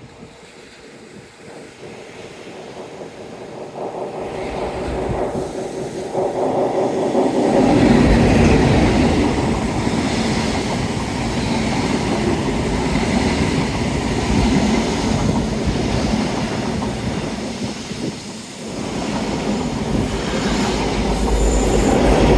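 A Pullman special train passing close by on the railway. Its rumble builds over the first several seconds into a loud run of wheels clattering and squealing on the rails, easing briefly and then loud again near the end. The train passes without sounding its horn.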